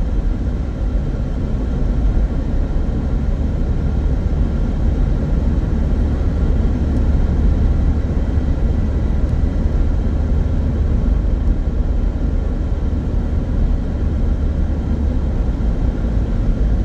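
Loud, steady low drone and rumble inside a small car's cabin while driving. It comes from the engine vibrating in drive, a vibration that stops when the car is put in neutral.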